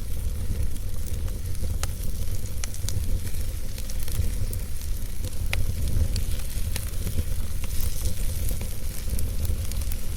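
Campfire burning, crackling with scattered sharp pops over a steady low rumble.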